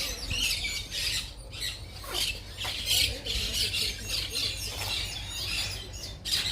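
A flock of birds squawking and chirping, many short overlapping calls a second without a break.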